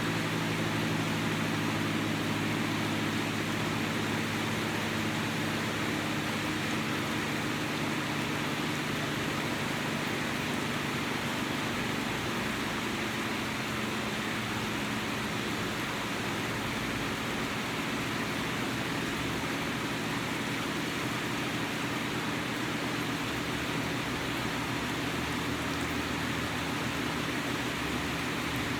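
Steady hiss of falling rain, with a low machine-like hum underneath whose pitch shifts about halfway through.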